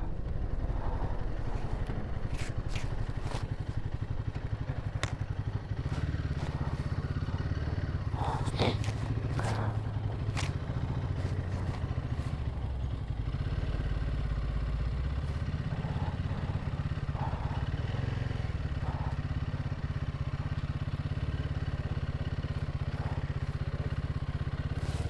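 Royal Enfield Himalayan 450's single-cylinder engine running steadily while riding, with scattered sharp clicks and clatter, mostly in the first half.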